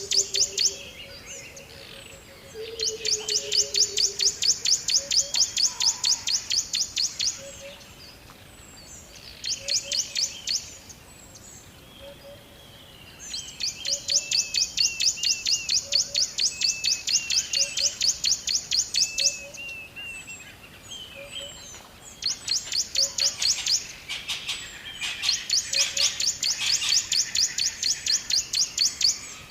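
Birds chirping in long runs of rapid, high notes, each run lasting a few seconds, with quieter calls in the gaps between runs.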